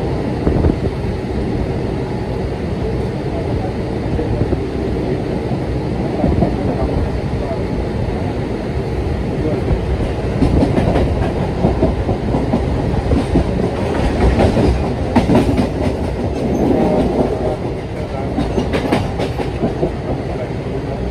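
Mumbai suburban local train (an electric multiple unit) running along the track, heard from inside the carriage at its open doorway: a steady rumble of wheels on rails, with sharper clickety-clack clatter coming through in the second half.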